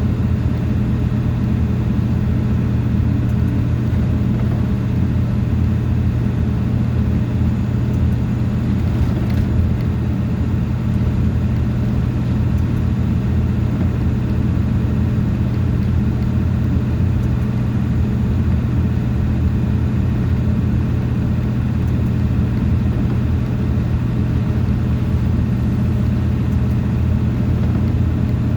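A motor vehicle driving at a steady pace, with a constant low engine and road drone.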